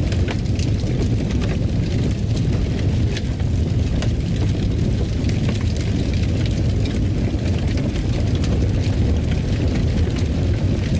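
Wood fire burning in a fireplace: a steady low rumble with frequent small crackles and snaps scattered throughout.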